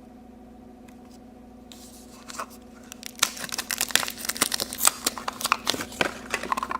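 Toy packaging being torn open and crinkled by hand: a dense run of sharp crackles and rustles that starts about two seconds in.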